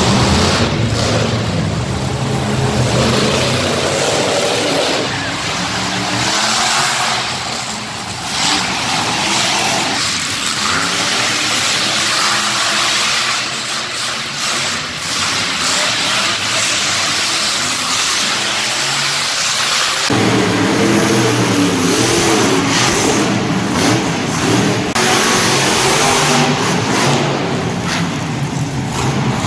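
Monster truck engines revving loudly, with surging throttle.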